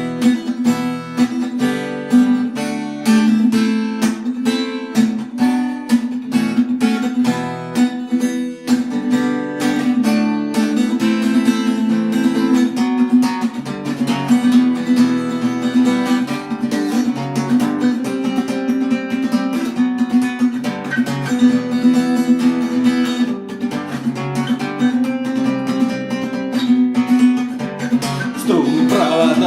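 Acoustic guitar strummed in a steady rhythm with changing chords, playing a song's instrumental introduction before the vocals come in.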